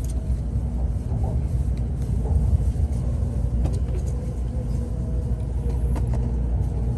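Sanyo Shinkansen train running, heard from inside the passenger cabin: a steady low rumble with a few faint clicks.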